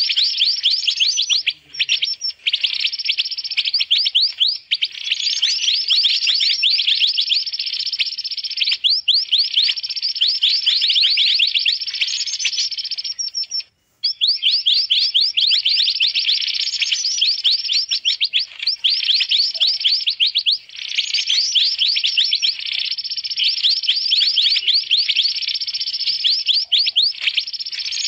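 Busy, excited calls of the mantenan bird played as a bird-lure recording. There are long runs of rapid, high, repeated chirps with a short break about halfway through.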